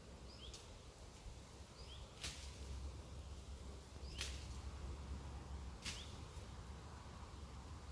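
Ontario Bushcraft machete chopping through thin hornbeam branches: three sharp cuts, roughly two seconds apart.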